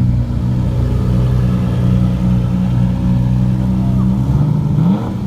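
A car engine idling with a steady low note, then rising in revs briefly near the end.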